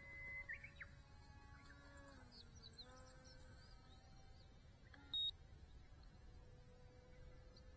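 Small electric RC plane's brushless motor and propeller whining in flight, a steady tone that dips slightly in pitch and recovers. Scattered short bird chirps, and a single brief electronic beep about five seconds in.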